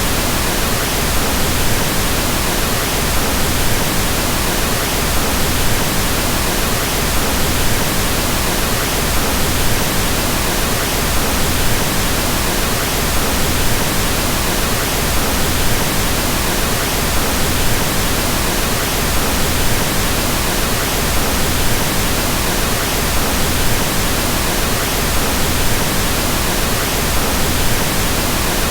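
Steady pink noise: an even, unbroken hiss with a deep, soft character, its energy stronger in the lows and falling off toward the highs.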